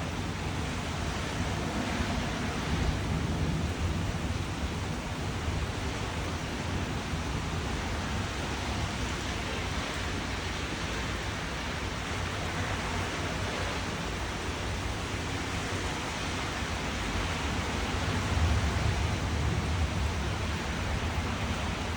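Steady heavy rain, a dense even hiss, with a deeper rumble swelling for a couple of seconds near the end.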